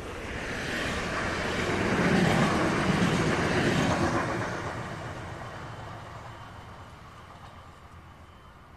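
Bombardier Talent 2 electric multiple unit (DB class 442) S-Bahn train passing by. Its rumble and rail noise swell to a peak about two seconds in, then fade steadily as it recedes.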